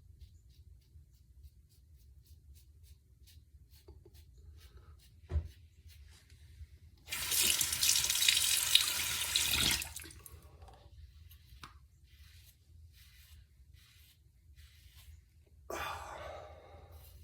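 Water from a tap running into a sink for about three seconds, with a shorter, weaker run near the end, typical of rinsing a razor mid-shave. Between runs come faint, quick scraping strokes of a double-edge safety razor on stubble, with a single knock about five seconds in.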